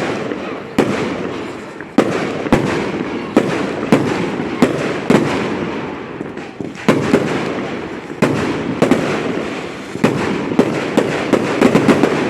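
Fireworks going off: a steady series of sharp, loud bangs about every half second to second, with crackling between them and a rapid flurry of bangs near the end.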